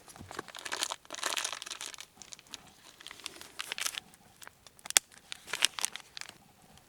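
Crinkling and rustling of handled material in irregular bursts, with a sharp click about five seconds in.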